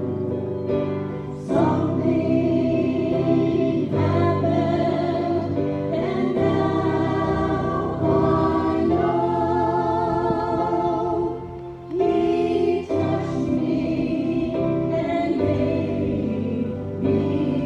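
A group singing a gospel hymn in phrases, with low instrumental accompaniment.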